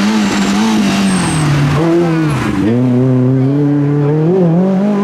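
Rally car engine running hard at high revs, its pitch sagging and then dropping sharply about halfway through before holding steady again.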